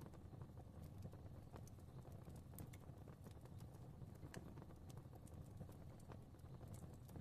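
Faint fireplace fire crackling: scattered, irregular sharp pops and snaps over a low steady rumble of flames.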